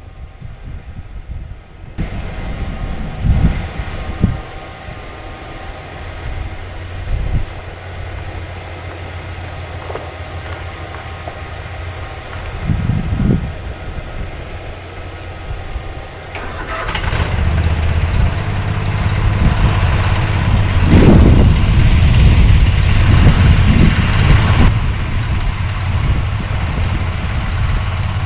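Craftsman Pro Series riding tractor's engine running, with a few thumps in the first half. About 17 s in it gets much louder, with a rushing noise over the engine, then drops back near the end.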